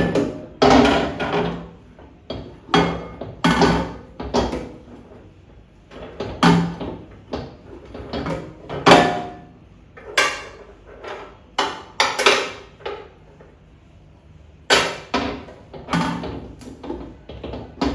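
Irregular clunks and knocks, a dozen or so, some with a brief ring, as parts of a new microwave oven are handled and set in place.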